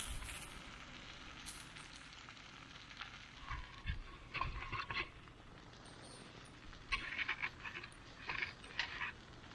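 Cooking over a small wood campfire: food sizzling on the grill with bursts of crackling, in two clusters of short pops and clicks.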